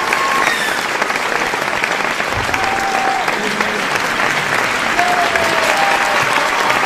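Large audience applauding steadily, a dense, even clatter of many hands clapping, with scattered cheering voices and short calls over it.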